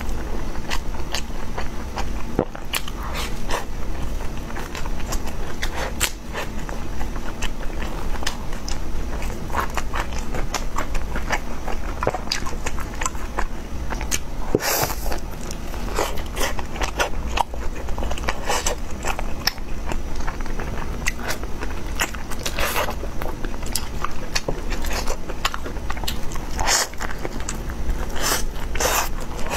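A person eating: biting and chewing food, heard as many short, irregular clicks and smacks.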